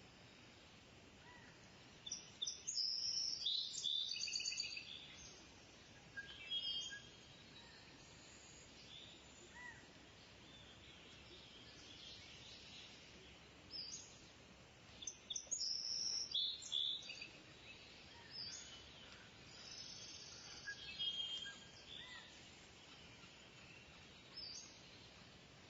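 Kingfisher calling: bouts of rapid, high-pitched call notes, the longest about two to five seconds in and again around fifteen to seventeen seconds, with shorter calls between, over a faint steady hiss.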